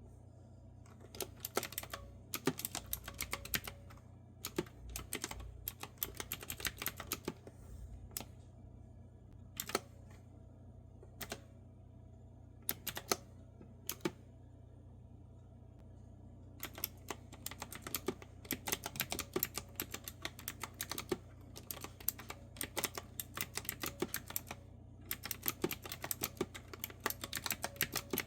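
Clicky typing on a retro-style keyboard with round keycaps. Quick runs of keystrokes slow to a few single clicks in the middle, then fast typing picks up again.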